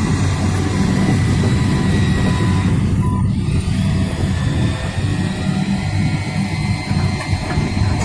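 Heavy truck engine running steadily, with a reversing alarm beeping until about three seconds in.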